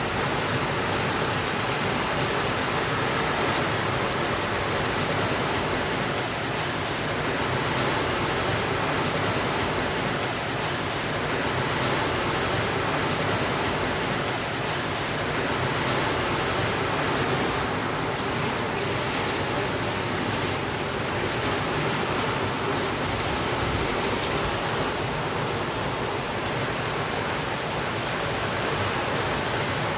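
Steady rainfall, a continuous even hiss with no thunder.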